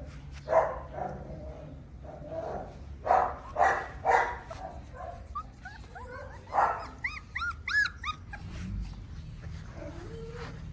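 Tibetan mastiff puppies barking, a handful of sharp barks, with a run of short high-pitched whines and yelps about halfway through.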